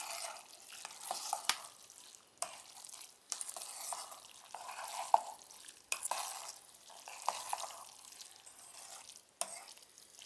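A spoon stirring and mixing cooked instant noodles in a bowl: wet, irregular swishing scrapes with frequent sharp clicks of the spoon against the bowl.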